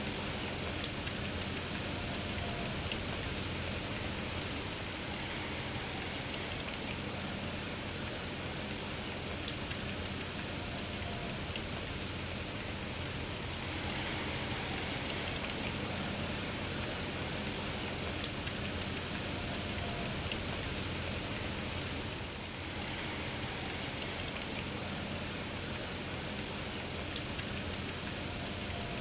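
Steady rain falling, an even hiss of drops on a surface. Four sharp drop-like clicks stand out, about nine seconds apart.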